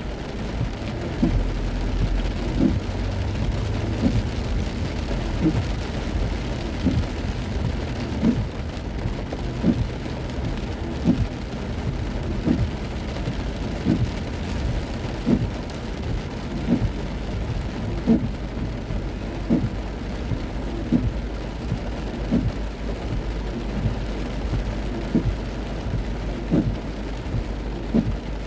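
Heavy rain drumming on a moving car, with a soft low thump repeating evenly about every second and a half.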